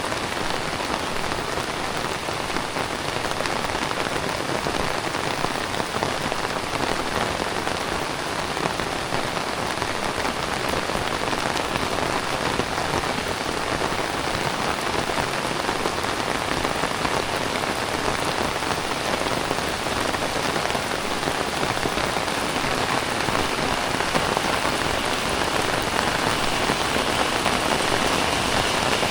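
Heavy rain falling steadily, growing slightly louder near the end.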